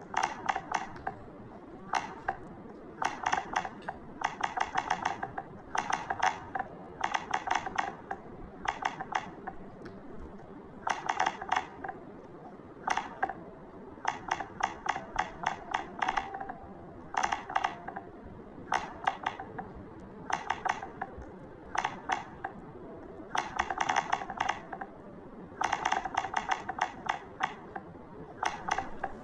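Typing on a keyboard: short bursts of rapid, sharp key clicks with brief pauses between them.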